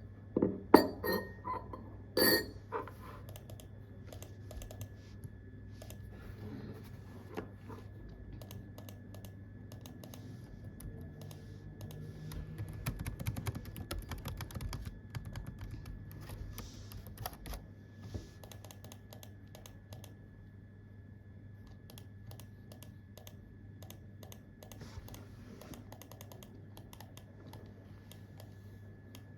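Typing on a computer keyboard, the keys clicking. A few loud clacks come in the first few seconds, then runs of fast typing that are densest around the middle and thin out toward the end, over a faint steady hum.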